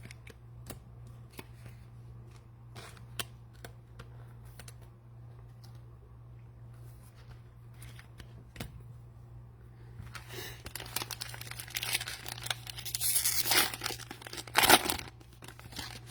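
Scattered light clicks of handling, then from about ten seconds in, loud crinkling and tearing as the plastic wrapper of a cello pack of trading cards is ripped open. A steady low hum runs underneath.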